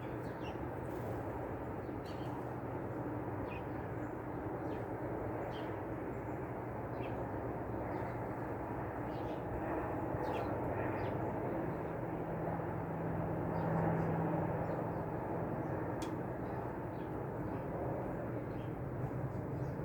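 Outdoor ambience with a steady low engine rumble that swells to its loudest about two-thirds of the way through. Short, scattered high chips from small songbirds sound over it.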